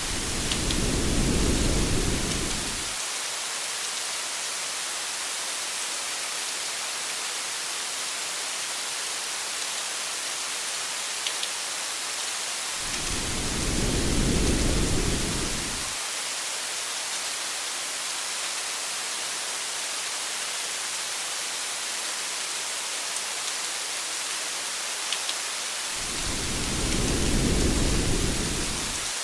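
Steady rain hiss with a low rumble of thunder three times, evenly spaced about 13 seconds apart, each swelling and fading over about three seconds.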